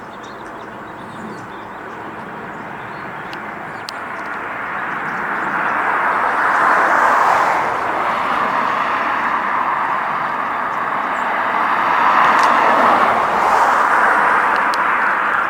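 Passing road traffic: tyre and engine noise swelling and fading as vehicles go by, loudest about seven seconds in and again between twelve and fourteen seconds.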